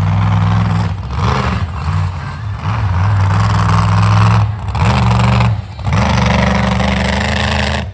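Race truck engine running at high revs. It drops off briefly about four times and climbs back up each time, as the driver lifts off and gets back on the throttle.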